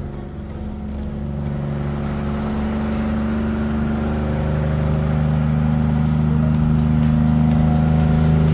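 Heavy truck's diesel engine running at a steady pitch, growing gradually louder.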